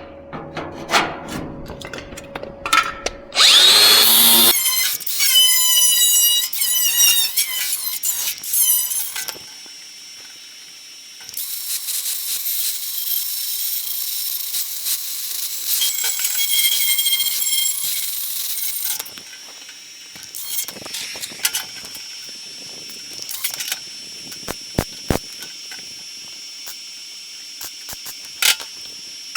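Power cutting tool cutting the sheet steel of a car fender: a loud, high squealing whine with a wavering pitch for about six seconds, then after a short pause a steadier, noisier cut for about eight seconds. Scattered light clicks and knocks follow near the end.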